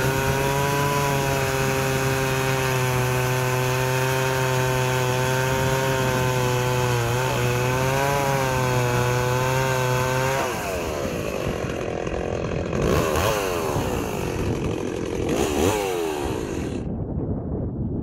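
Stihl 038 Magnum two-stroke chainsaw running at a steady pitch. About ten seconds in, the steady note breaks off into a few short revs that fall away in pitch, and near the end the high hiss drops out.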